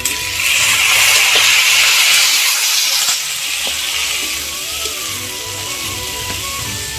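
Peeled garlic cloves hitting hot oil in a kadai, sizzling loudly for about three seconds and then settling to a quieter fry. Background music with a steady beat plays throughout.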